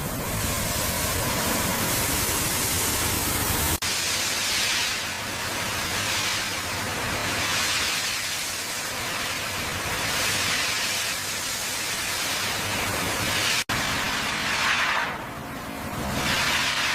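Loud, steady hissing noise, cut off sharply twice and sweeping up and down in pitch near the end.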